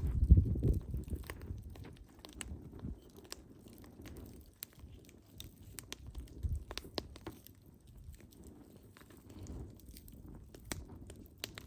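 Wood fire crackling, with irregular sharp pops and snaps of burning logs over a low rumble that is loudest in the first second.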